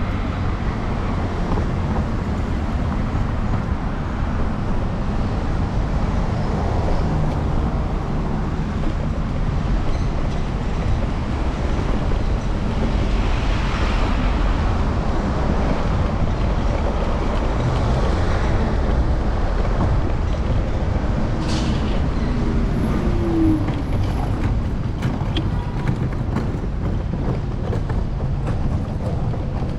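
Steady low rumble of wind and road vibration picked up by a camera mounted on the handlebars of a moving electric scooter, mixed with city street traffic. A few short clicks come about two-thirds of the way in.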